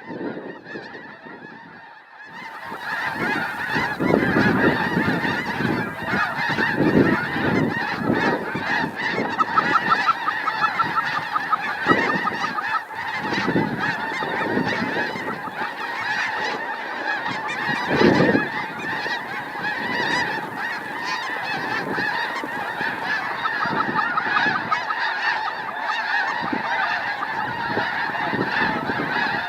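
A large flock of snow geese calling, a dense, continuous chorus of overlapping honks that swells in about two seconds in.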